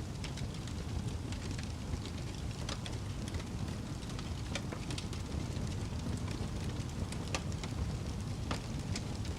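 Fire burning with a steady low rumble and irregular crackles and pops, several a second.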